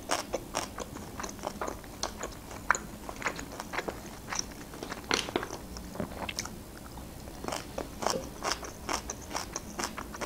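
A person chewing and crunching a mouthful of grilled meat and fresh cabbage salad, with many small crisp crackles and wet mouth clicks at an uneven pace.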